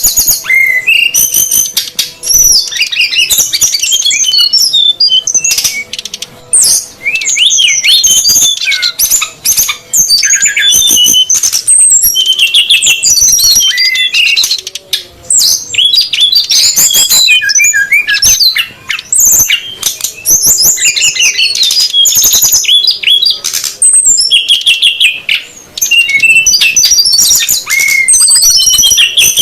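Bird-lure recording of male and female srdc birds calling noisily together: a dense, continuous stream of high, quick chirps and twittering notes, loud throughout with only brief pauses.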